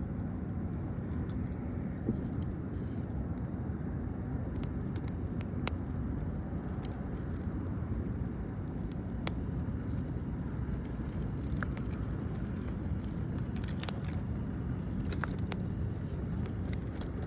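Wood campfire crackling, with scattered sharp pops and snaps over a steady low rush.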